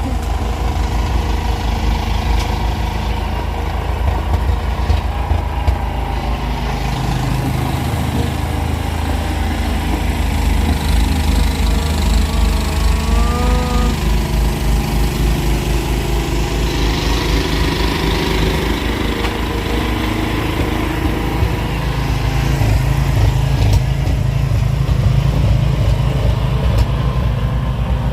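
An engine running steadily with a low, even pulse, getting slightly louder in the last few seconds.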